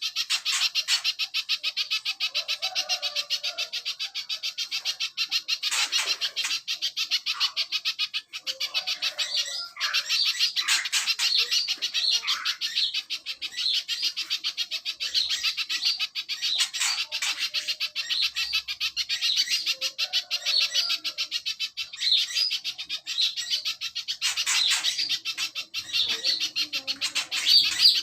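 Spiderhunter (pijantung pisang) singing in full rapid-fire 'tembakan': a continuous, very fast run of high, sharp notes, broken every few seconds by louder sweeping calls.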